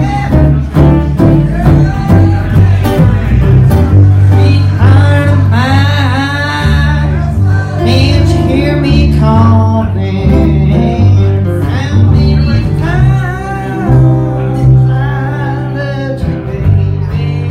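Live bluegrass band playing, with bass notes stepping underneath plucked strings and a sliding lead melody on top.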